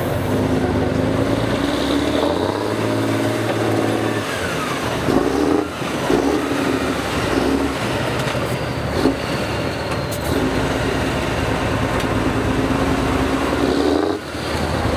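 Competition trial truck's engine working and revving on the course, its pitch stepping up and down as the throttle changes, with a brief drop near the end.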